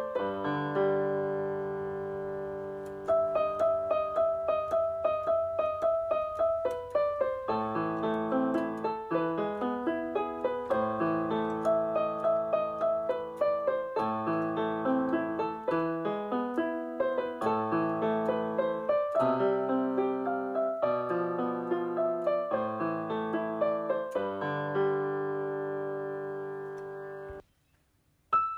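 Background piano music: a steady run of repeated notes, broken by a brief silence near the end before it starts again.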